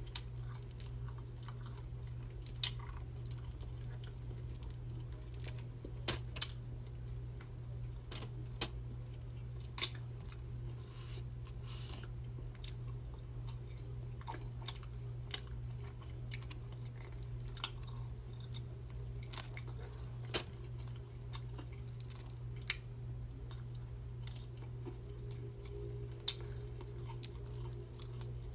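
Close-miked chewing of seafood-boil food, with scattered sharp wet clicks and small crunches, over a steady low hum.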